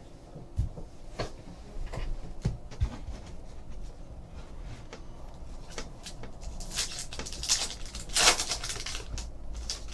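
Trading cards and their packs being handled on a table: a few light taps and clicks, then a few seconds of rustling and crinkling that is loudest about eight seconds in.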